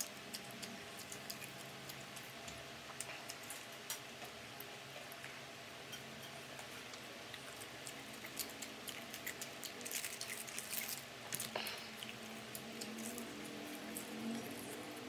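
Close-miked eating: chewing and picking at crispy fried duck near the bone, with scattered small mouth clicks and crunches and a denser run of them about ten seconds in.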